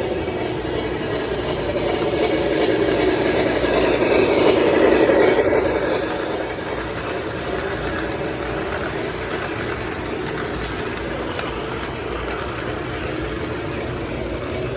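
Lionel O gauge Camelback steam locomotive and its freight cars running along a model railroad track, a steady rumble of motor and wheels on the rails. It grows louder about four to five seconds in, as the train passes closest, then settles back to an even level.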